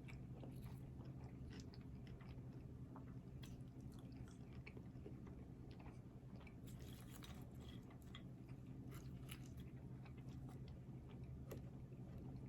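Close-mic chewing and biting of a burger-and-fries meal: scattered small crunchy and wet mouth clicks, with a busier run of them about seven seconds in, over a steady low hum.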